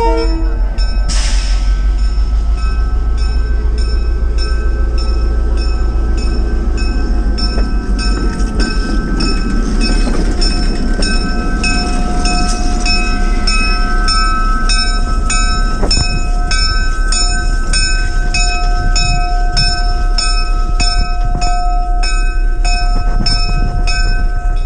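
Diesel locomotive moving during switching, its rumble swelling in the middle, while a bell rings steadily about one and a half strikes a second. A short burst of noise comes about a second in.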